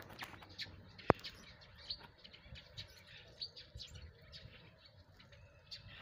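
Faint, scattered chirps of small birds, with one sharp click about a second in.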